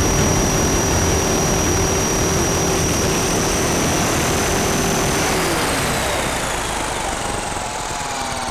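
Electric RC helicopter running: a brushless motor whine and rotor noise. The motor pitch falls about five and a half seconds in, as the throttle comes down.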